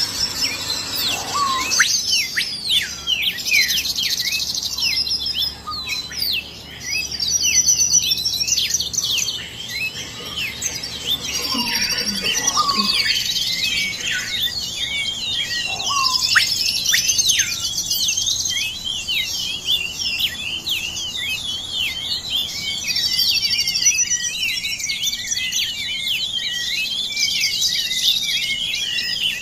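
A chorus of many small birds chirping and trilling together, dense and continuous, with overlapping rapid trills and repeated sharp calls that sweep steeply downward in pitch.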